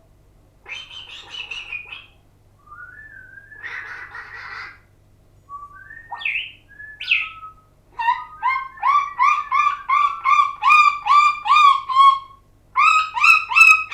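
A pet bird calling: a few scattered chirps and short whistled glides, then from about halfway a fast run of loud, repeated rising whistled notes, about three a second.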